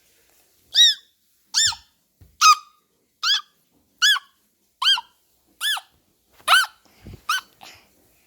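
A puppy giving a series of short, high-pitched whining calls, each rising and falling in pitch, about one every 0.8 seconds, nine in a row.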